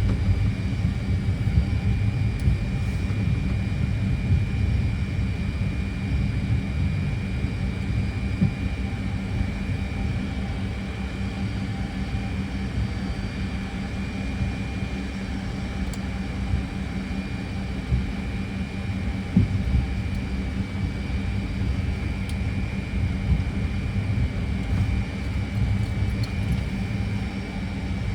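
Fokker 100 cockpit noise with the engines still running: a steady low rumble with a constant high whine.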